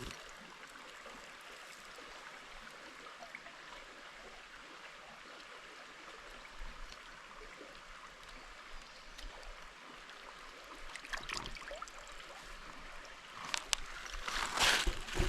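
Stream water running steadily over rocks. Near the end come a few louder scuffs and knocks close by.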